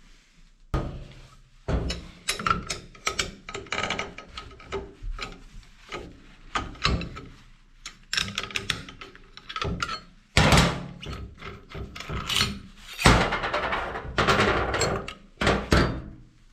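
A run of irregular hard knocks, clunks and clatter of metal parts being handled, with no steady motor tone.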